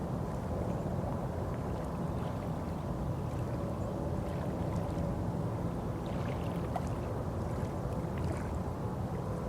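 Steady low rumble of a boat on the water, with a faint steady hum and a few small light clicks.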